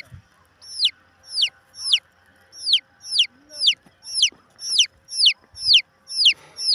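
A chick peeping: short, high calls repeated about twice a second, each one falling sharply in pitch.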